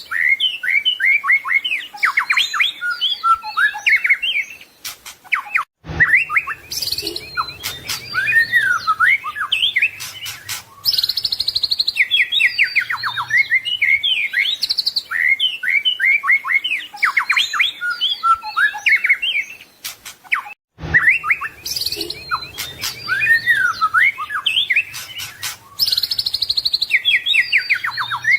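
White-rumped shama (murai batu) singing a rapid, varied stream of whistles, trills and chirps, the full mixed repertoire that keepers play to train a songbird. The song breaks off abruptly for an instant twice, about 6 and 21 seconds in.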